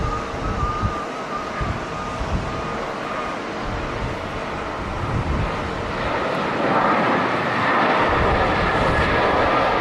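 Jet airliner engines running, growing louder from about six seconds in, with gusts of wind buffeting the microphone.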